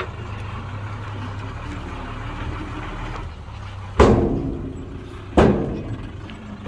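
Heavy vehicle's diesel engine running steadily, then two loud sudden bangs about four and five and a half seconds in, each fading off over about a second.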